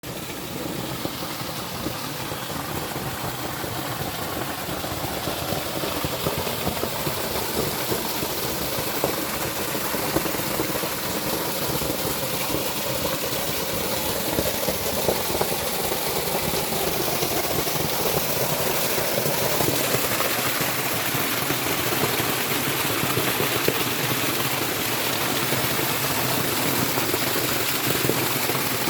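Water rushing steadily down a mountain stream, a dense even rush that grows slightly louder toward the end.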